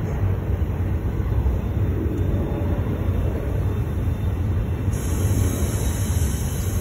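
Double-stack intermodal freight train rolling past, a steady low rumble of wheels on rail.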